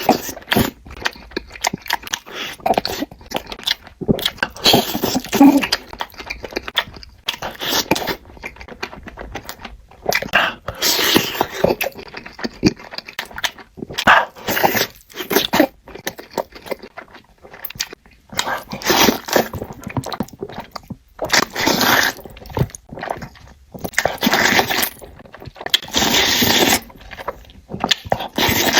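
Close-up eating sounds: irregular bouts of chewing and mouth noises with short pauses between them.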